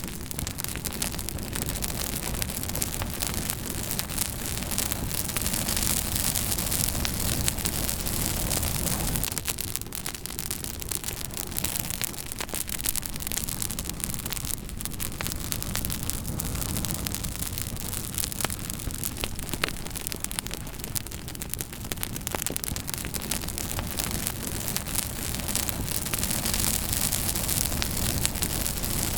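Campfire burning, the wood crackling with many sharp pops and clicks over a steady hiss.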